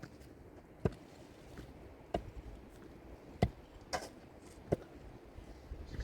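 A series of sharp knocks or chopping strikes, about one a second, six in all, with an unevenly spaced pair near the middle.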